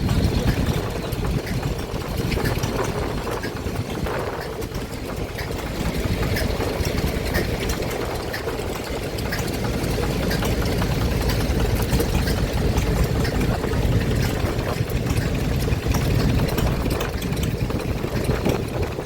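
Vintage stationary engine running steadily.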